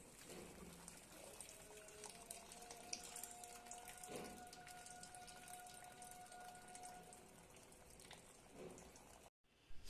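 Faint water sounds with many small ticks and crackles, and a faint steady tone held for several seconds in the middle; the sound cuts out briefly near the end.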